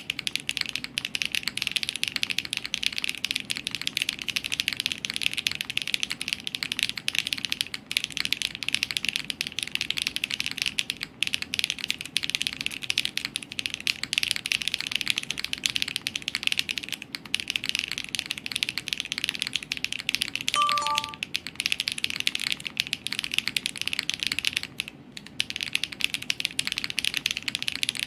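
Fast, continuous typing on a Wuque Studio Paper80 mechanical keyboard with HMX Macchiato switches, polycarbonate plate, 1.6 mm non-flex-cut PCB and no foam: a dense stream of key clacks with a few short pauses. About twenty seconds in, a brief three-note falling chime sounds faintly.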